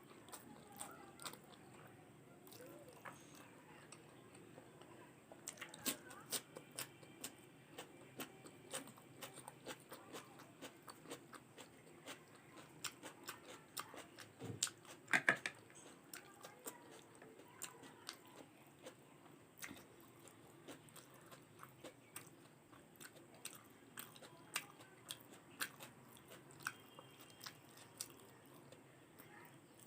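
Close-miked chewing and mouth sounds of a person eating, a steady scatter of small wet clicks and smacks with a louder cluster about halfway through.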